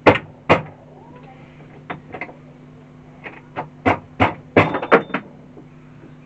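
Sharp clicks and knocks of small plastic and metal RC car parts and tools being handled on a workbench, a scattered run of them with a quick cluster near the end, over a steady low hum.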